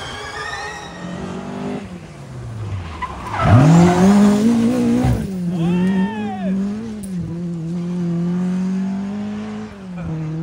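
Rally car engine revved hard about three and a half seconds in, then held at high revs with small rises and dips, tyres squealing as the car spins. The revs drop briefly near the end, then pick up again.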